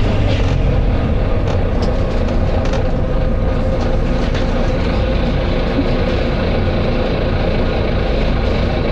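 Volvo B9TL double-decker bus's engine running steadily, a continuous low drone with a few small clicks and rattles.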